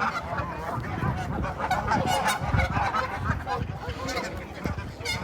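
A flock of waterfowl calling, with many short calls overlapping one another.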